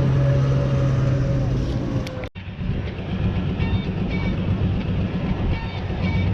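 Pulling tractor engine running loudly: a steady low drone that cuts out sharply about two seconds in and comes back as a heavier, rougher low rumble.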